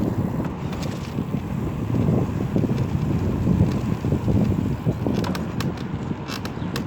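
Wind buffeting the microphone of a camera carried on a moving bicycle, a gusty low rumble, with a few faint light clicks and rattles near the start and again in the last couple of seconds.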